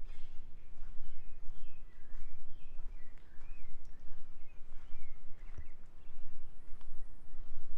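Several small birds chirping in short curved calls again and again, over a steady low rumble.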